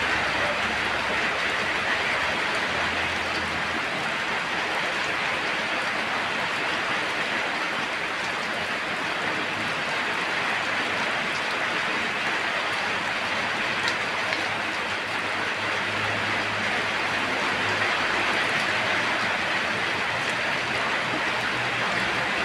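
Steady rain falling, an even hiss of drops with no let-up, and a faint low rumble now and then underneath.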